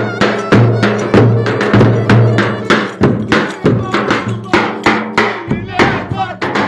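Live Turkish folk dance music: a fast, steady beat of sharp percussion strokes over held low notes.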